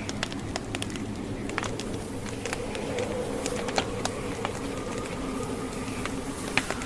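Wood fire crackling: irregular sharp pops and snaps over a steady low hum.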